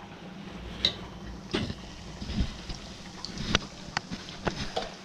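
Empanadas frying in a pan of oil, a steady sizzle, with scattered light clicks and clinks of plates and utensils being handled.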